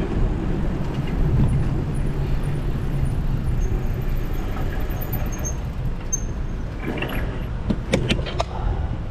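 City street traffic heard from a moving bicycle, with a steady low rumble of wind on the microphone. A short run of sharp clicks comes about eight seconds in.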